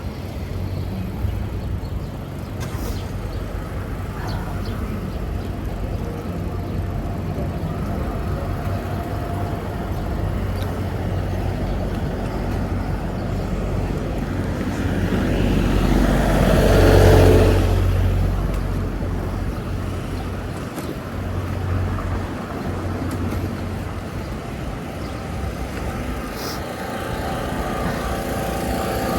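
City street traffic: a steady low rumble of engines and tyres, with one vehicle passing close and loudest a little past halfway through.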